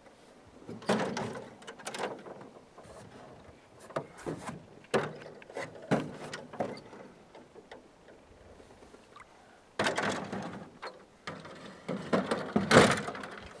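Parts of a portable mini trimaran being handled and fitted together by hand: an irregular series of knocks, clicks and scraping. Longer bouts of rattling and rubbing come about a second in and again over the last few seconds.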